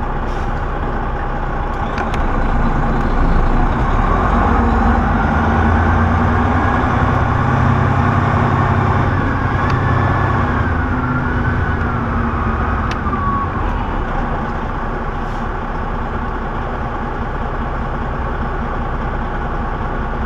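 Semi truck's diesel engine running, building up louder for several seconds and then easing back to a steady run, with a thin whine that wavers and falls in pitch in the middle.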